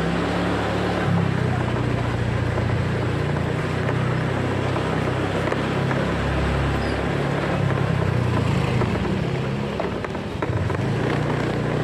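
Motorcycle engine running while riding, its low hum shifting up and down in pitch as the speed changes, over steady road and wind noise.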